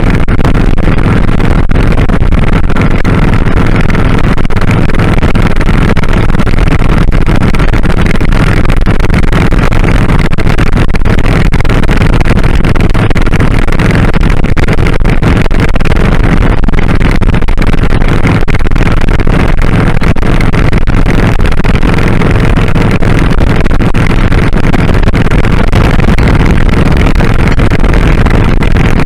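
A 2001 Kawasaki Drifter 1500's V-twin engine running steadily while riding, loud and even throughout, with a constant rush of road and wind noise.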